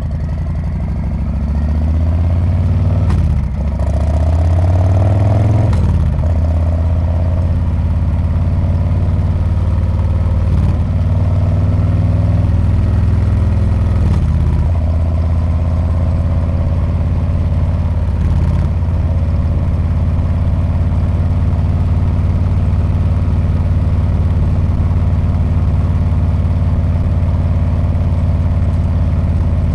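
Harley-Davidson Street Bob's V-twin engine and exhaust under way. Its pitch rises through the gears, with a short break at each of several upshifts over the first twenty seconds or so, then it settles into a steady cruise.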